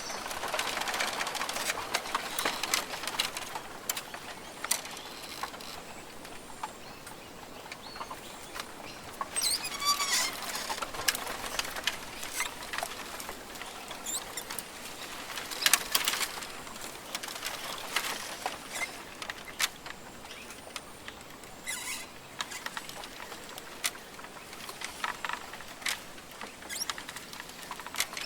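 Rainforest ambience: scattered short bird calls and chirps over a soft background hiss, with many small clicks and taps throughout.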